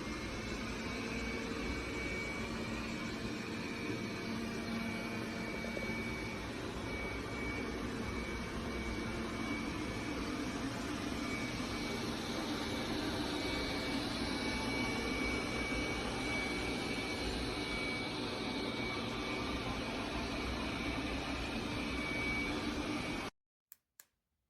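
Robot vacuum cleaner running: a steady whir of its suction fan with a thin high-pitched whine over a low hum. It cuts off suddenly shortly before the end, followed by a couple of faint clicks.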